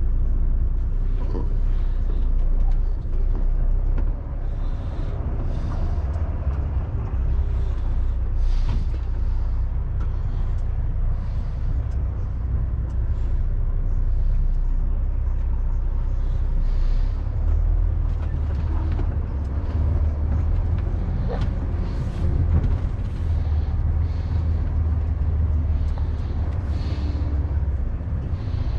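Diesel engine of an HGV tractor unit running low and steady as the tanker lorry creeps around a lorry park, with short hisses of air from its air brakes now and then.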